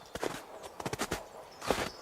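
A hiker's footsteps on a mountain trail: an uneven run of short crunching steps.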